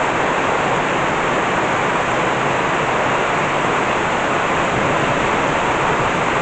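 Heavy tropical downpour: rain falling hard and steadily as an even, unbroken hiss.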